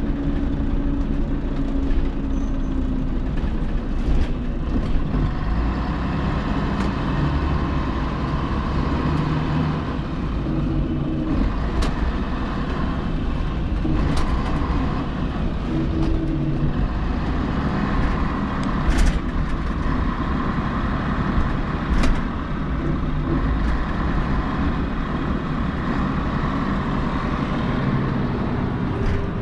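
Scania CN113CLB city bus running, its diesel engine humming steadily under way, with a few short knocks or rattles here and there.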